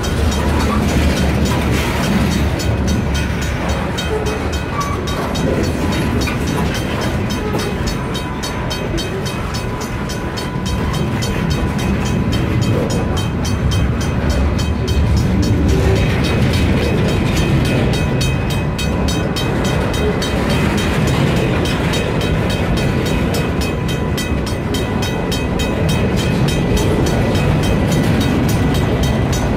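Kiamichi Railroad freight train hauled by EMD SD40-2 diesel locomotives, running steadily with engine rumble and wheel-on-rail noise. A thin high whine grows stronger about halfway through.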